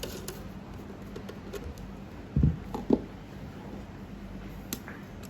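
Light clicks and handling noise as screws are fitted into a fusion splicer's outer cover, with two dull knocks about two and a half and three seconds in.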